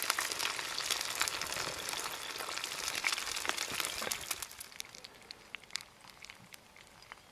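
Eggs frying in a cast-iron pan on a portable gas stove, sizzling and spitting with many tiny crackles. After about four seconds the sizzling falls away to faint, scattered crackles.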